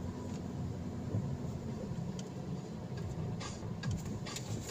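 Car engine idling, a steady low rumble heard from inside the cabin, with a couple of faint clicks.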